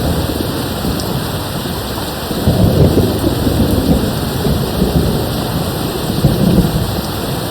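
Steady rain with a low rumble of distant thunder that swells up a couple of seconds in and fades away near the end.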